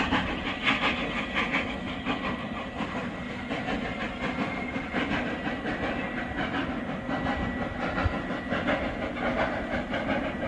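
Steam locomotive on the move, hissing steam with a run of irregular beats, and a thin steady high tone through the middle.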